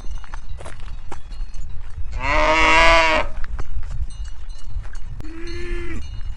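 A cow mooing twice: a loud moo lasting about a second, about two seconds in, then a shorter, fainter moo near the end, over a low rumble.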